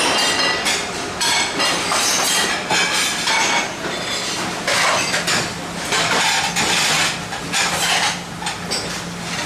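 Metal dishes, pans and cutlery clattering continuously in irregular knocks and clinks, over a steady machinery hum.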